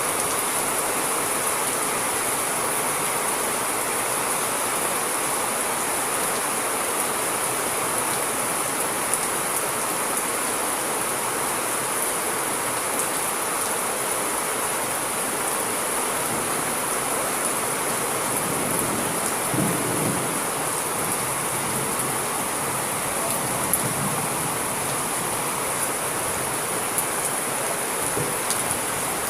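Steady heavy rain hiss with a brief low rumble of distant thunder about two-thirds of the way through.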